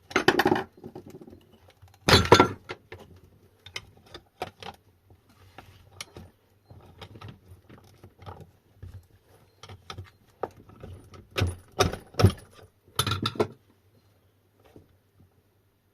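Metal tools and parts clinking, knocking and clattering in irregular handling noises, with louder clatters about two seconds in and again near the end.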